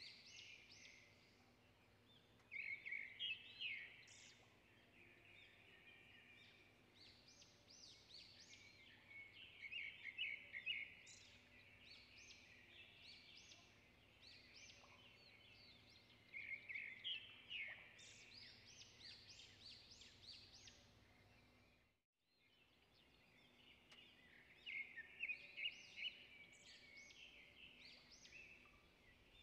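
Faint birds chirping: clusters of short, high chirps repeat all through, with a brief dropout about two-thirds of the way in.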